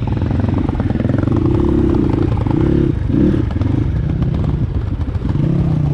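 Dirt bike engine running at low revs, rising and falling in pitch several times as the throttle is worked, with a light clatter running through it.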